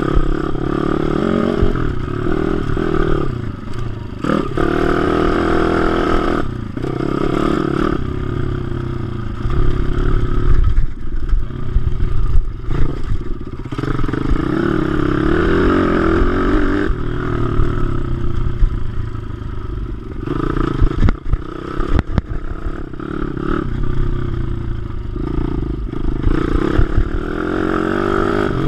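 WPB 155 pit bike's single-cylinder four-stroke engine being ridden hard on track, its pitch climbing through the revs, dropping at gear changes and when backing off, then climbing again, over and over.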